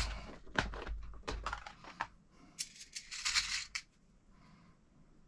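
Small metal screws clicking and rattling as hardware is picked through by hand, with a brief rustle about three seconds in.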